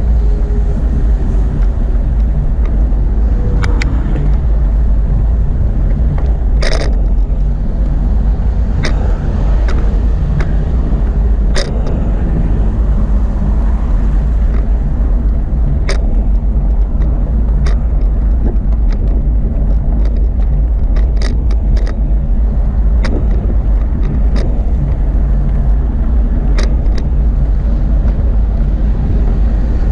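Steady low rumble of a bicycle ride with wind buffeting the microphone, broken by about a dozen short sharp clicks and rattles from the bike.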